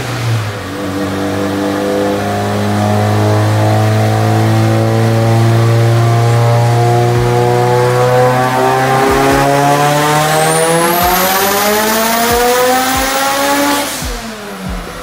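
Mitsubishi Lancer Evolution IX's turbocharged 2.0-litre four-cylinder, fitted with a big T3 turbo, running on a chassis dyno. It holds a steady engine speed for several seconds, then revs up hard through the rev range in a full-throttle pull, with a high whine climbing alongside. Near the end it drops off suddenly as the throttle is lifted.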